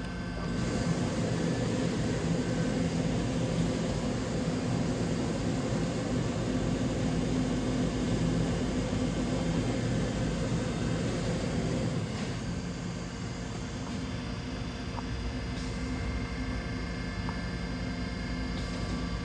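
DMG Mori DVF 5000 five-axis CNC machining center running a machining cycle: a steady mechanical drone with several hum tones. It gets louder about half a second in and eases somewhat after about twelve seconds.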